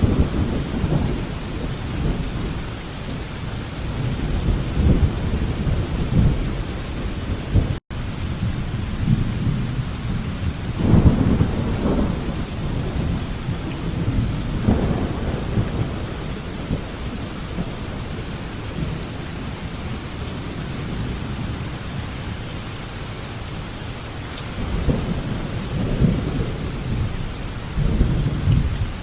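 Steady heavy rain with thunder rumbling again and again: low rolls swell in the first few seconds, twice more in the middle, and again near the end. The sound drops out for a split second about eight seconds in.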